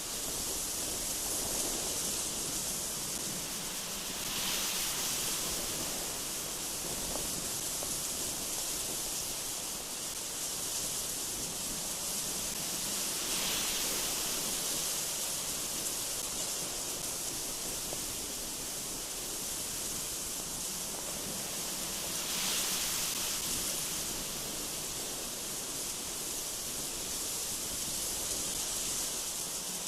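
Strong gusty wind blowing: a steady hiss that swells in short gusts about every nine seconds.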